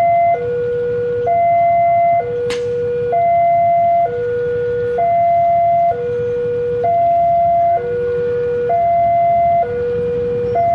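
Railway level-crossing warning alarm sounding, an electronic two-tone signal alternating high and low about every second, which warns that a train is approaching. Under it is a low rumble of waiting traffic, and there is one sharp click a few seconds in.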